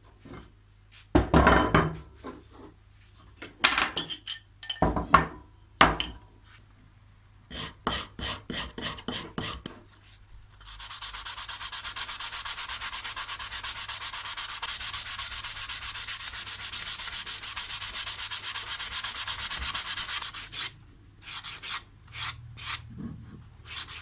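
An old metal clamp being scrubbed with an abrasive during its restoration. First come a few knocks and scrapes, then rhythmic strokes about four a second, then about ten seconds of steady rasping, and a few more strokes near the end.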